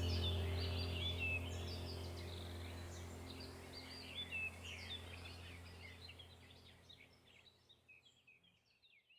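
Small backyard songbirds chirping and twittering over a steady low hum, everything fading out to silence near the end.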